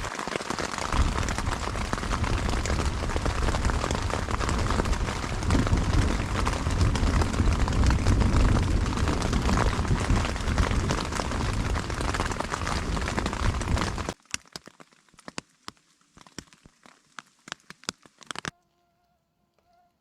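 Heavy rain falling on a tent, a dense steady hiss with a low rumble. About fourteen seconds in it cuts off abruptly, leaving scattered drips. Near the end there is only a faint steady hum.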